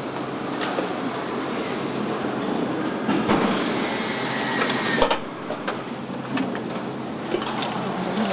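Truck assembly-line noise: a steady machinery hum with scattered sharp metallic knocks, and a burst of hiss about three and a half seconds in that lasts under two seconds.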